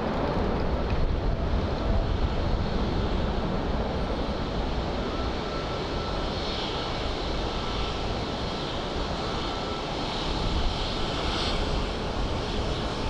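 Boeing 787-9 airliner's jet engines at takeoff power as it departs: a steady, loud rumble with a deep low end and a hiss above it.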